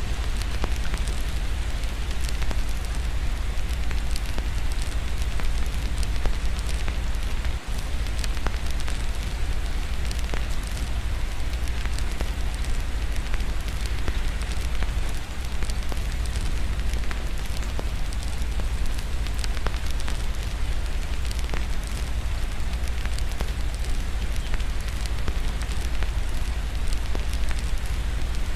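Fireplace crackling with many scattered pops over a steady hiss of rain, with a constant low rumble underneath.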